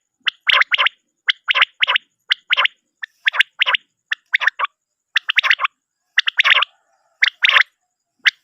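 Common quail calling: short phrases of two or three quick, sharp notes, repeated about once a second.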